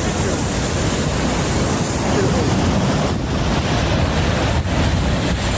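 Loud, steady rushing noise with wind blowing on the microphone.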